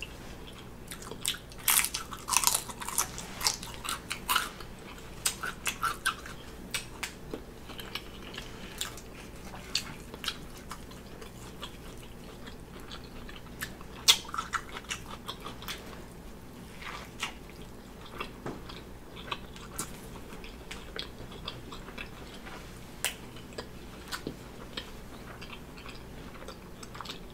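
A person biting into and chewing a BBQ bacon cheeseburger, with wet mouth clicks and smacks all through. They come thickest in the first few seconds and again at a fresh bite about halfway through.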